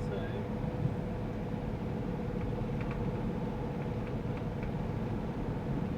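Steady engine and road noise heard from inside the cabin of a moving GAZ Sobol van, with a thin constant hum running under it.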